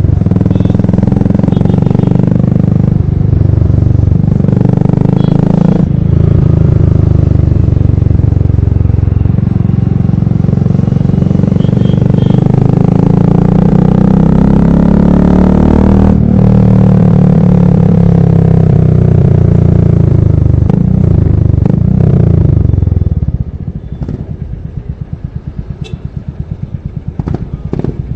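Royal Enfield Classic single-cylinder motorcycle exhaust, loud, revved up and down several times. About 23 seconds in it drops back to a quieter, evenly thumping idle.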